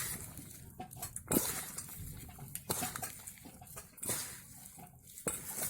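Hands rubbing and squeezing sliced onion and cabbage in a mixing bowl, separating the pieces one by one: an uneven run of rustles and moist crackles with a few sharper crunches.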